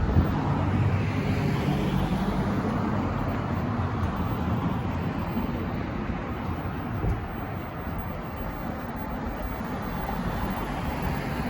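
City street traffic. A motor vehicle's engine hum is loudest in the first few seconds as it goes by, then eases into steady road noise.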